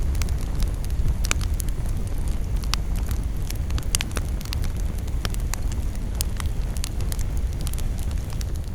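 Campfire burning, the wood crackling and popping in sharp, irregular snaps over a steady low rumble.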